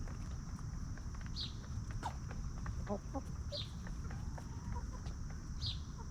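Free-range chickens clucking softly while foraging, with a few short clucks about halfway through and a short high chirp about every two seconds.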